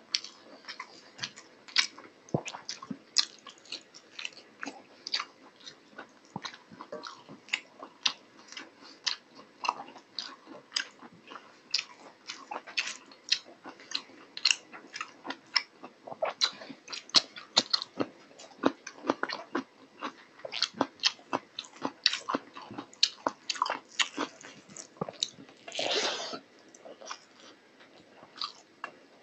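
Close-up eating sounds of a man chewing hand-fed mouthfuls of rice and mutton curry: quick wet mouth clicks and lip smacks, several a second, with one longer, noisier mouth sound near the end.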